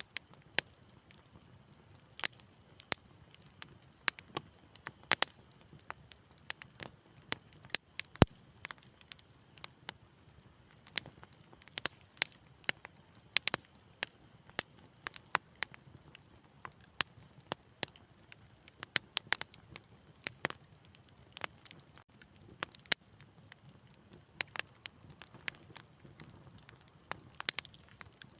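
Wood fire crackling in a fireplace: frequent sharp, irregular pops and snaps over a low, soft rush of flame.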